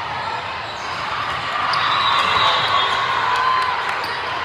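Ball bouncing on a gym floor amid the steady noise of a crowd in a large indoor hall, with scattered short clicks.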